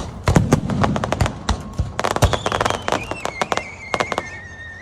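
Fireworks going off: a rapid string of sharp bangs and crackling pops, densest midway. From about halfway a high whistling tone slides slowly downward.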